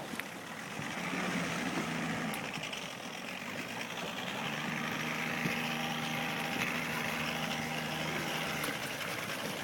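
Boat engine running steadily at an even, low pitch over a steady hiss.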